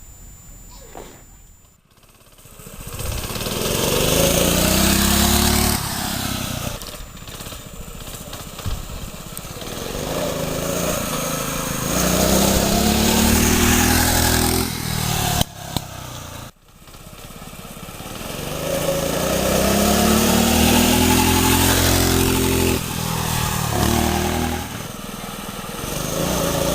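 A small minibike engine being ridden, repeatedly revving up and easing off so its pitch climbs and falls in long swells. It starts about two seconds in and breaks off briefly about two-thirds of the way through.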